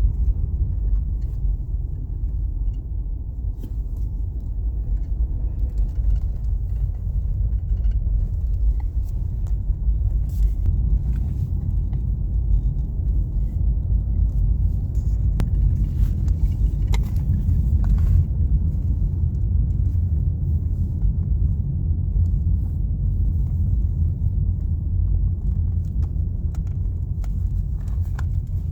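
A car driving along a road: a steady low rumble of engine and tyres, with a few faint scattered clicks.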